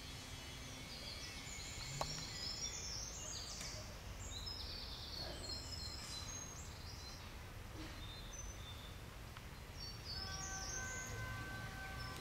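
Small birds singing in short high chirping phrases over a low outdoor rumble, with a single sharp click about two seconds in. Near the end a steady hum of several tones comes in.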